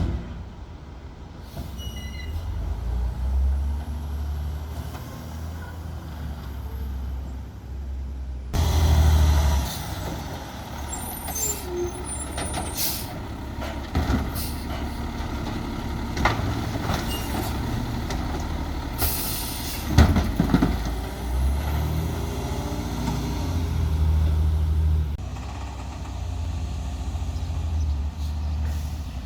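Diesel engine of a Peterbilt 320 side-loader garbage truck with a Labrie Expert 2000 body running steadily. Its air brakes hiss, and sharp metallic knocks and bangs sound several times past the middle.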